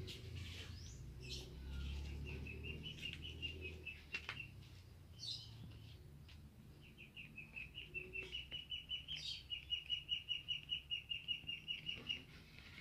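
A bird calling long runs of quick, evenly spaced chirps at one steady high pitch, about six a second. There is a pause of a couple of seconds in the middle and a few faint knocks.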